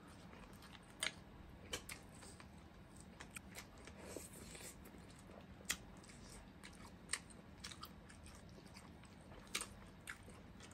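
Faint close-up eating sounds: people chewing mussels and fried fish, with scattered short sharp clicks over a low steady room hum.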